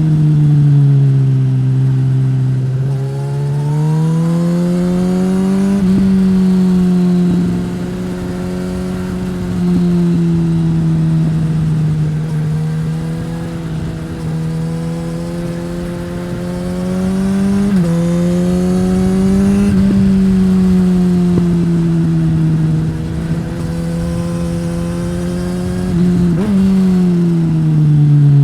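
Onboard sound of a 2015 Suzuki GSX-S1000's inline-four engine through a Yoshimura R-11 slip-on exhaust, running under changing throttle. The pitch climbs and falls repeatedly, with a few abrupt steps in pitch.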